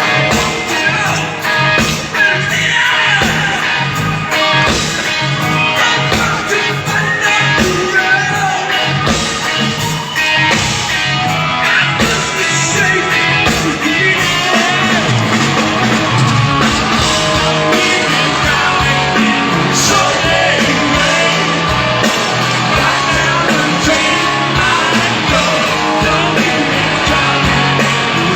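Rock music with electric guitars and drums playing loudly, a singer's voice over them.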